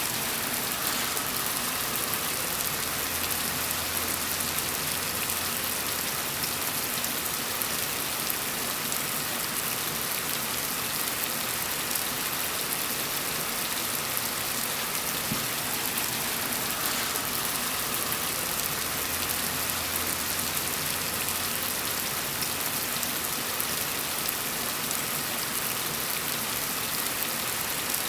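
Steady rain, an even hiss of drops falling on a surface.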